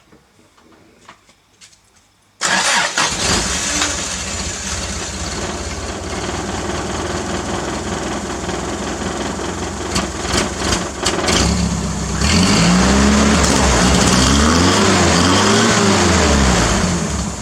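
Toyota 4Y four-cylinder petrol engine starting up about two seconds in and running loud through a makeshift, dumped-out exhaust. About twelve seconds in it gets louder, then is revved up and down three times before settling back.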